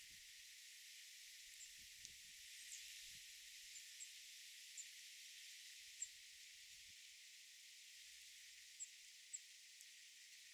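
Faint, steady high hiss of outdoor background with scattered short, very high chirps from small birds, about eight in all, the clearest about six seconds in.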